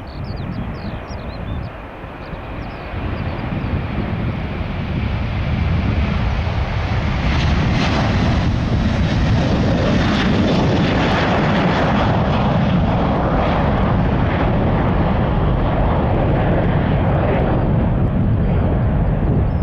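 Jet airliner's engines at takeoff thrust, growing louder over the first six seconds, then a steady, loud rush and rumble.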